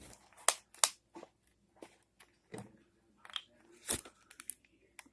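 Irregular sharp clicks, taps and crackles of objects being handled, loudest three times: about half a second in, just under a second in, and around four seconds in.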